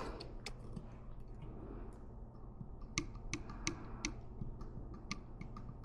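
Light, irregular clicks and taps of small parts being handled during thermostat work, a few spaced apart and then several close together in the second half.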